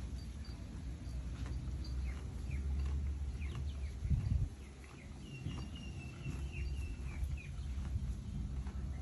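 Small birds chirping in quick short calls, with a longer twittering call near the middle, over a steady low rumble of wind or distant noise. A brief low thump comes just after four seconds in.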